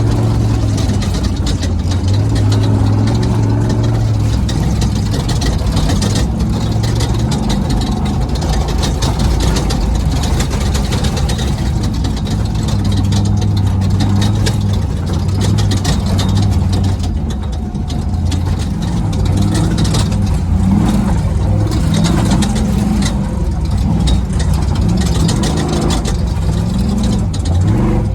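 Off-road race truck driven hard, heard from inside: the engine's pitch rises and falls with the throttle over steady wind and road noise, with constant rattling and knocks from the rough ground.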